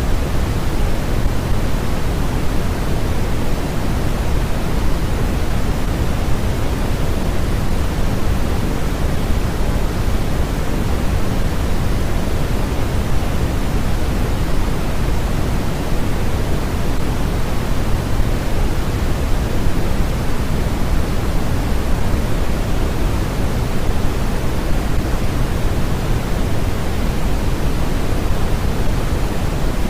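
Constant generated white noise, weighted toward the low end like pink noise: an even hiss over a fuller rumble, unchanging throughout.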